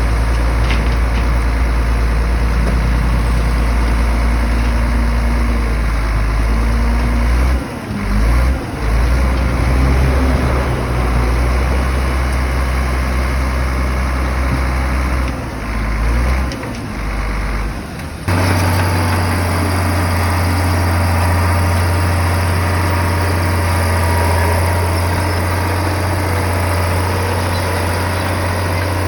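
Heavy bulldozer diesel engine running steadily, its low drone dipping briefly twice. About 18 seconds in it switches abruptly to a different steady engine drone.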